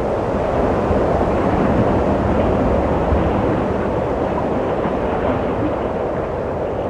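Steady wind blowing: a low, even rushing noise that swells slightly and eases again.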